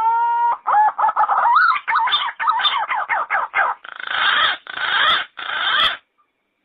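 Yellow-footed green pigeon singing. A whistled note slides upward and levels off, then breaks into a run of quick warbling whistles, and ends with three longer, rougher notes. It stops about six seconds in.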